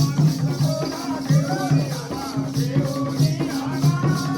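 Jakhadi folk music between sung lines: a steady drum beat with fast, evenly repeating jingling percussion and a wavering melody over a low drone.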